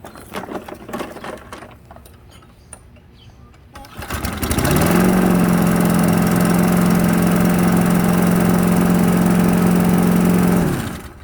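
Briggs & Stratton engine on a Craftsman push mower, without a choke, catching about four seconds in, building to a steady run for about six seconds, then stopping quickly near the end. It is a test run on a freshly fitted carburetor.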